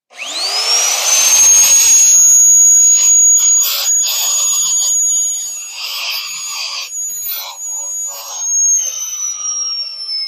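Electric drill motor spinning up to a high whine, then boring into half-inch steel plate, the rough cutting noise coming and going as pressure is put on. Near the end the motor's whine slowly drops in pitch as it slows.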